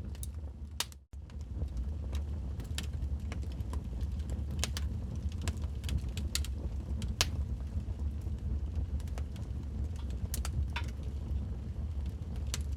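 Wood fire crackling in a fireplace: irregular sharp pops and snaps from the burning logs over a steady low rumble. The sound cuts out for an instant about a second in.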